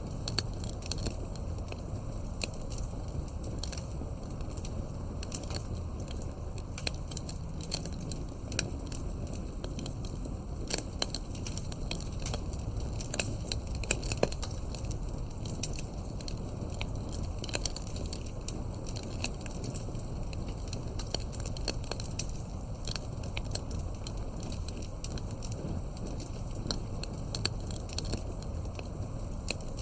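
Campfire burning, with irregular sharp crackles and pops over a steady low background of the fire.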